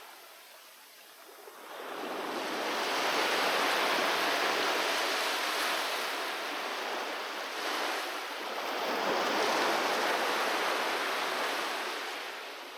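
Sea waves surging onto the shore. After a brief lull a wave swells in about two seconds in and washes for several seconds, a second surge follows around eight seconds in, and the wash then fades.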